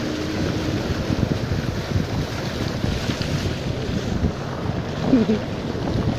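Heavy rain and rushing water: a steady, loud wash of noise with gusts of wind buffeting the microphone.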